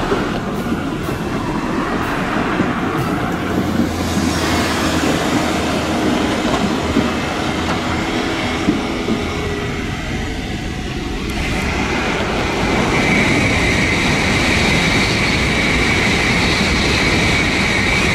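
Electric trains passing on the tracks. First a Shizuoka Railway A3000-series train goes by, its wheels clicking over rail joints. Then, for the last several seconds, an N700A Shinkansen passes at speed with a loud rushing noise and a steady high whine.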